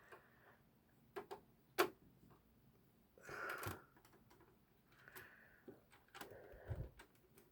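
Faint scattered clicks and short scraping sounds of a Torx T20 screwdriver working the case screws of an original Xbox.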